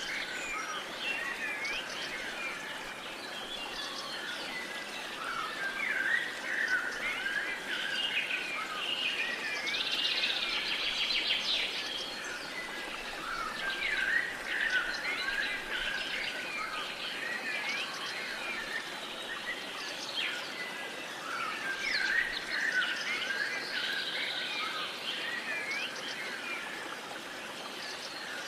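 Many songbirds chirping and singing at once, short overlapping calls and whistles, with a fast trill about ten seconds in, over a soft steady hiss of outdoor background noise.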